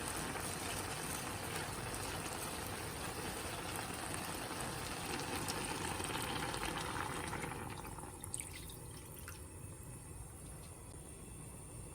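Kitchen tap water running steadily into a vessel, growing louder as it fills, then shut off about eight seconds in; a couple of light clicks follow.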